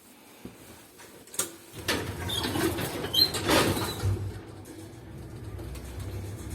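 Soviet-era KMZ passenger lift (1993) working: a sharp click, then a couple of seconds of mechanical clattering and knocking, settling after about four seconds into a steady low hum.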